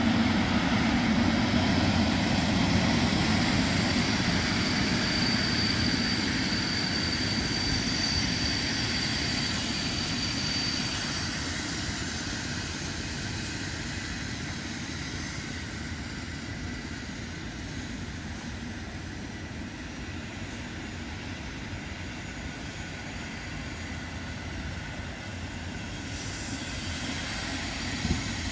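Passenger train hauled by an EP07 electric locomotive passing close by: the rumble is loudest at first as the locomotive goes past, then gives way to the steady rolling noise of the coaches' wheels on the rails, slowly growing quieter. A thin high whine sounds for several seconds in the first half, and a short sharp click comes near the end.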